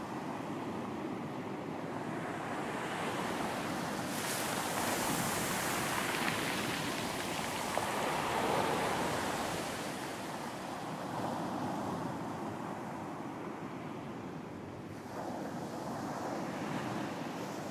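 Ocean surf breaking on a beach, the wash of the waves swelling and easing over several seconds, loudest about eight seconds in.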